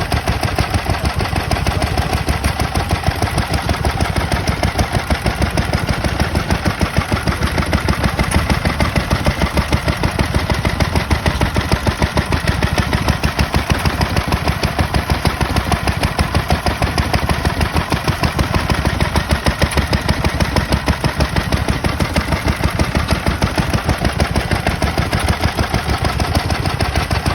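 Stationary engine running steadily, with a rapid, even beat of firing strokes and no misses or changes in speed.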